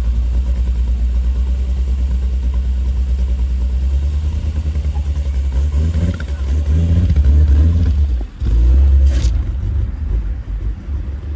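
Car engine pulling hard under acceleration, its pitch rising, with a brief break for a gear change about eight seconds in before it pulls again.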